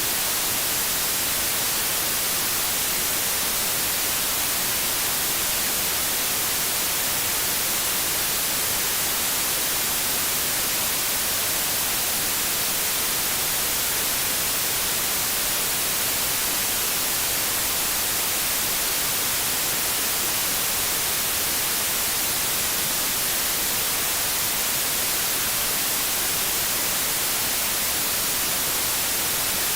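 TV static: a steady, hissing white noise, brightest in the highs, with no change.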